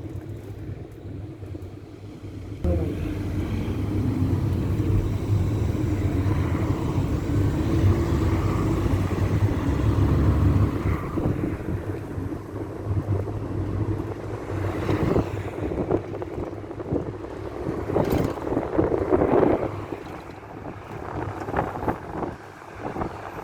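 Old Ford route minibus on the move, heard from the passenger cabin: engine and road rumble that rises suddenly about three seconds in and stays strong, with a wavering drone. In the second half it eases off, with short knocks and rattles from the body.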